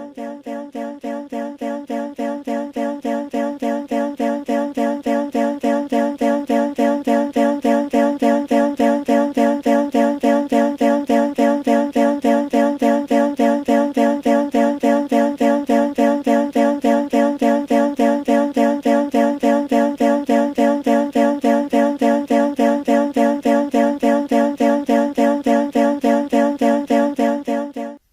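Synthesized steady tone of several fixed pitches, pulsing evenly at about four beats a second, played as an auditory-illusion demonstration. It swells over the first few seconds, holds steady, then cuts off suddenly.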